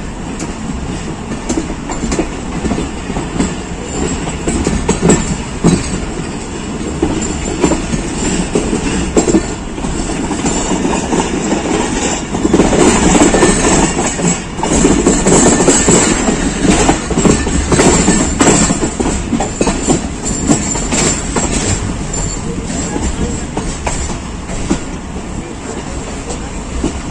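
Passenger train coaches running through a railway yard, heard from an open doorway of the moving train: a steady wheel-and-rail rumble with repeated clicks over rail joints and points. The noise swells for several seconds around the middle, with a high wheel squeal.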